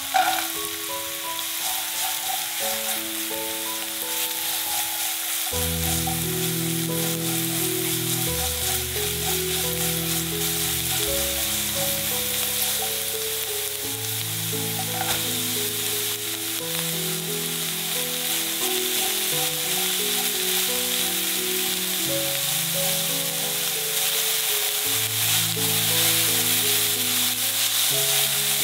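Diced onion and carrot sizzling in hot oil in a frying pan, a steady crackling hiss throughout. Background music plays along with it, its bass line coming in about five seconds in.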